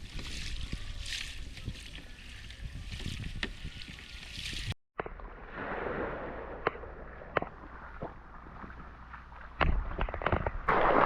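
Water sloshing and splashing around a kayak, with a few sharp knocks; the sound cuts out for an instant about five seconds in.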